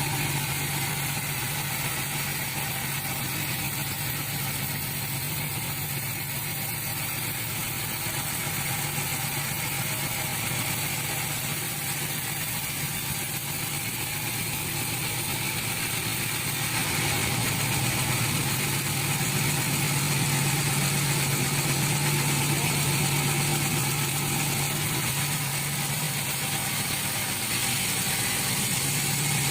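Sawmill machinery running steadily, with a constant engine-like hum under a dense hiss. It grows a little louder a bit past halfway.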